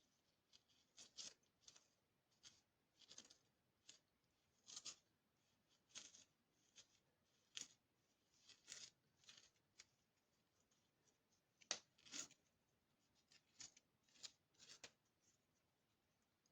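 Faint, irregular scrapes and taps of a wooden stirring stick packing stove-masonry mortar into the cracked joints of a brick stove-fireplace. The strongest scrapes come about twelve seconds in.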